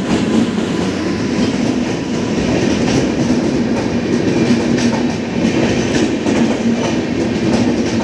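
Locomotive-hauled passenger train running past along a station platform: a loud, steady rumble with the clatter of its wheels on the rails.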